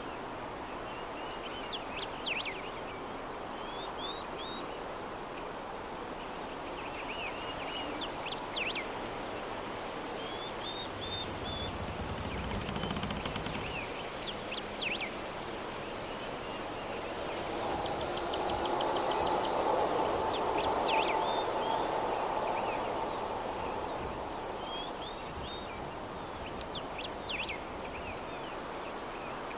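Soft, steady breeze with birds chirping in short bursts every few seconds. The breeze swells louder for several seconds a little past halfway, then settles again.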